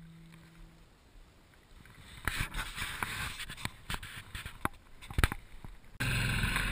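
A guitar track fades out into brief near silence, followed by scattered knocks and rustling on the microphone. About six seconds in, a Royal Enfield motorcycle's single-cylinder engine comes in abruptly, running steadily.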